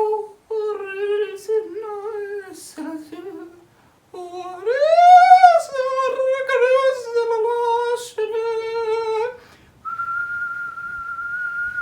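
A voice humming or droning a string of drawn-out, wavering notes, one swooping up and back down about halfway through. It ends with a single steady whistled note lasting about two seconds.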